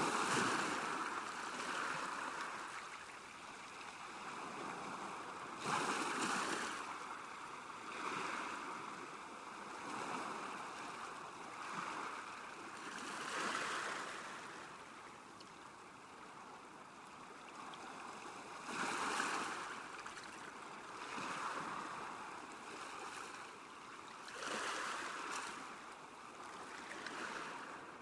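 Small waves lapping on a lakeshore: soft washes of water that swell and fade unevenly every couple of seconds.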